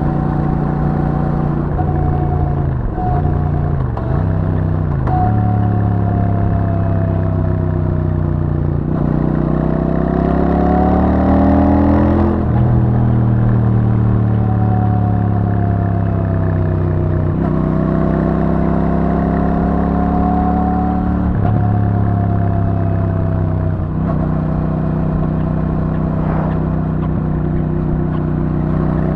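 Royal Enfield Super Meteor 650's parallel-twin engine through its stock exhaust, cruising. Its note dips briefly a few times early on, rises steadily for a few seconds as the bike accelerates, then eases back and settles.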